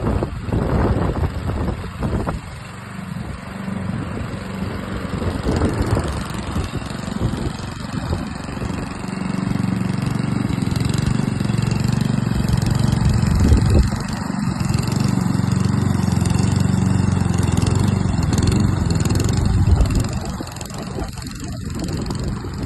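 STIHL lawn mower running with a steady low hum. It runs louder and more evenly from about nine seconds in until about twenty seconds in, then drops back.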